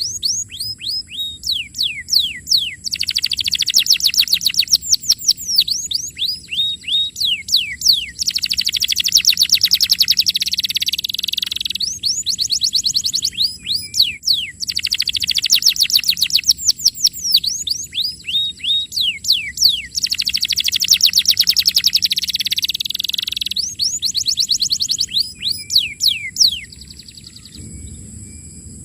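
Domestic canary singing: rapid trills alternating with runs of quick downward-sweeping notes, in phrases a few seconds long with short gaps between, until the song stops near the end.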